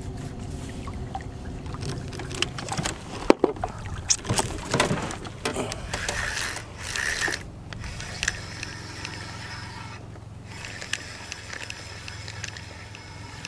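A small fishing boat's motor runs steadily with a low hum while the boat moves along trolling. During the first half there are scattered knocks and clatter in the boat, the loudest about three seconds in.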